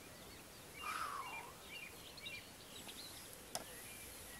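Small birds chirping in the background over faint outdoor noise, with a louder, falling call about a second in and a single sharp click near the end.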